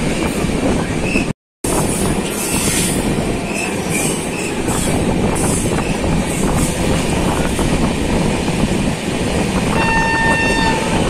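Passenger express train running at speed, heard from an open coach door: a steady rumble and clatter of wheels on rail. A train horn sounds near the end, holding one steady note.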